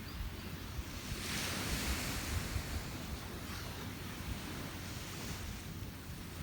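Sea waves washing up the beach: a swell of surf hiss about a second in that fades over the next couple of seconds, then smaller washes. Wind rumbles on the microphone underneath.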